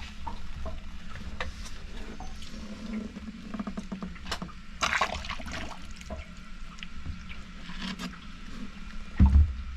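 Handling noises: scattered small clicks, knocks and brief rustles over a steady low hum, with one loud, low thump about nine seconds in.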